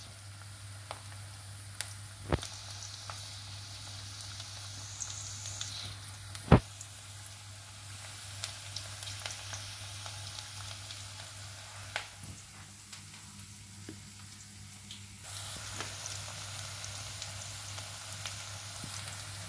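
Sliced onions sizzling as they fry in hot oil in a kadai, with scattered small pops and a couple of sharp knocks. The sizzle grows louder about three quarters of the way through.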